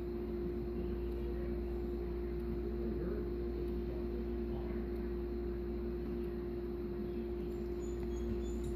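A steady machine-like hum with one constant tone over a low rumble, unchanging throughout, with no thuds.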